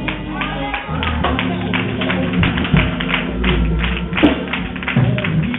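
Live church worship music with a fast, busy percussive beat of sharp strokes over sustained low instrument tones.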